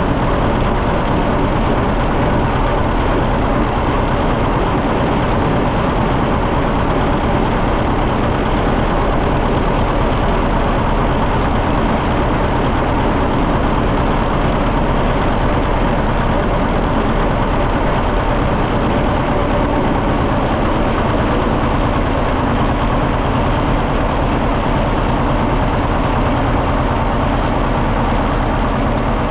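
John Deere 730 tractor's two-cylinder engine running steadily on the road, its firing a rapid even pulse with no change in speed.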